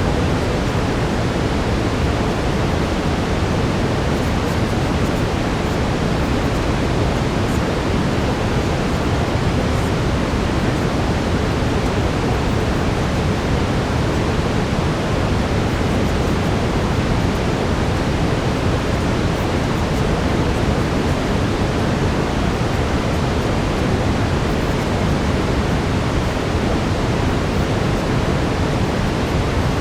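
Steady brown noise: an even, unbroken rush of noise weighted toward the low end, with no events or changes.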